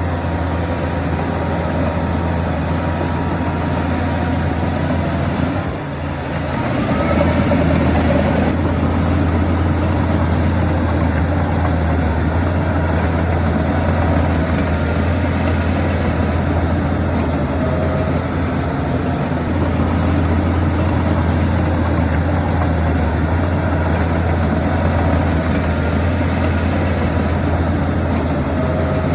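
Heavy diesel engine of earthmoving machinery running steadily under load, with a short dip about six seconds in before it picks up again, louder.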